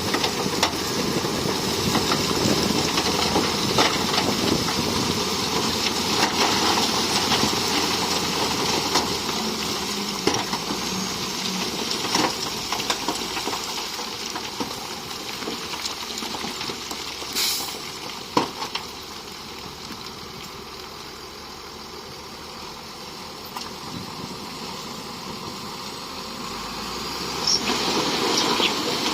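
Heavy earthmoving machinery running and working, a steady rush of engine and moving-dirt noise. It is loudest at first, eases off through the middle and swells again near the end, with a couple of sharp clanks just past halfway.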